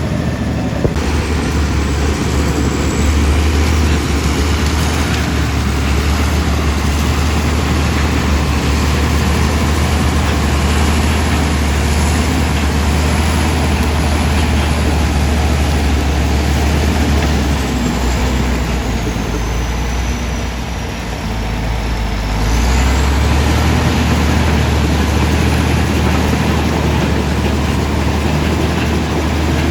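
Komatsu D65E bulldozer's diesel engine running hard with a steady low drone, easing off around two-thirds of the way through and picking back up a few seconds later. A faint thin high squeal glides down and then back up over the engine.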